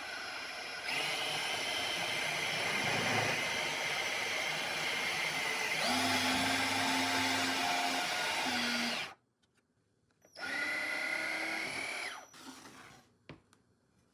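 Homemade drill press's 18 V 775 DC motor running with a steady whine, its pitch shifting about six seconds in, then stopping at about nine seconds. It starts again for a couple of seconds, and a few light clicks follow near the end.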